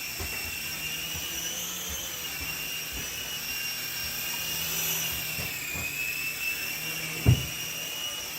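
Sky Rover Vigilante toy RC helicopter hovering, its small electric rotor motors giving a steady high whine that wavers slightly in pitch. A single thump about seven seconds in.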